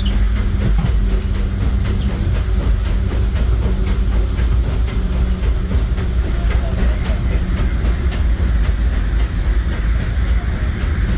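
Disneyland Railroad train heard from onboard a passenger car behind a steam locomotive: a steady low rumble of the moving train, with a regular clicking from the wheels.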